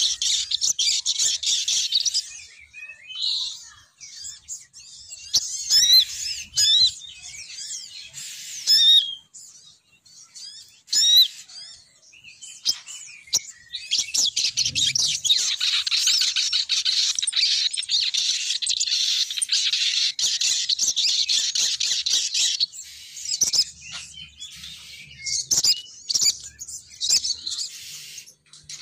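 Lure recording of a female sogon bird calling: rapid, high chirps and trills. The chirping comes in dense unbroken runs at the start and again through the middle, with scattered single chirps between.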